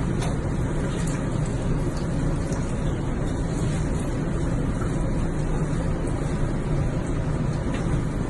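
A steady low rumble with hiss above it, even throughout, with no clear pitch or rhythm.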